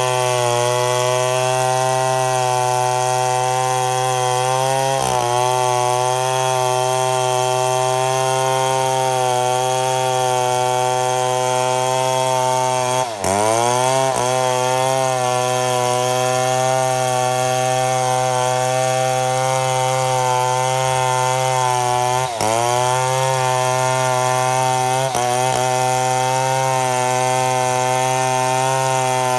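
Chainsaw running at full throttle while ripping lengthwise through a mahogany log to mill boards. The engine holds a steady high pitch; twice the pitch drops sharply and recovers within a moment.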